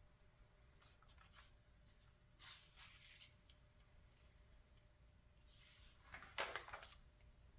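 Pages of a paper catalog being turned by hand: faint small rustles, a soft swish about two and a half seconds in, then a longer, louder swish with a crisp snap of paper a little after six seconds.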